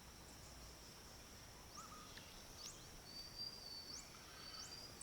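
Faint outdoor ambience: insects droning steadily at a high pitch, with several short rising chirps and a thin level whistle in the second half.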